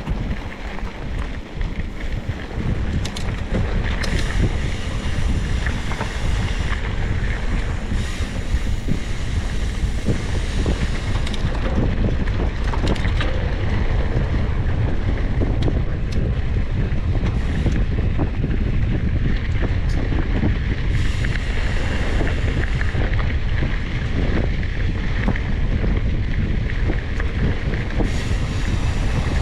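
Wind buffeting the microphone: a steady, loud rumble with a hiss that rises and falls in spells.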